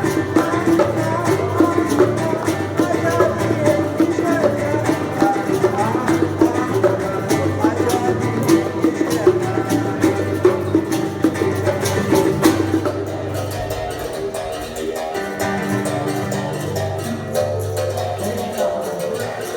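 Acoustic guitar playing an instrumental passage, plucked and strummed, with sharp hand-drum hits over it. It gets a little quieter about thirteen seconds in.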